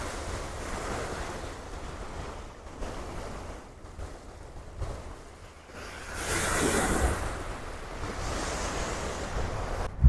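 Indian Ocean waves breaking and washing up the beach, with wind buffeting the microphone as a low rumble. A louder wave surges about six seconds in, and a smaller one near the end.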